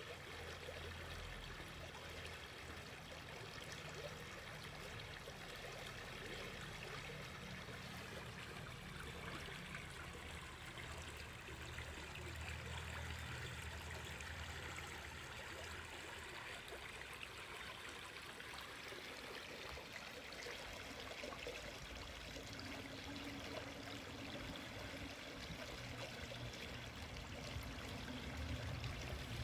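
River water flowing and rushing steadily over its bed, an even, unbroken stream sound.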